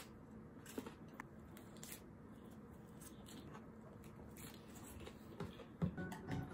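Faint chewing and eating sounds with scattered small clicks and taps.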